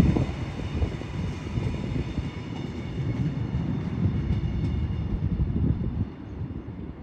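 Train passing on the tracks and moving away: a loud low rumble with a steady high whine above it, both fading over several seconds and dropping off near the end.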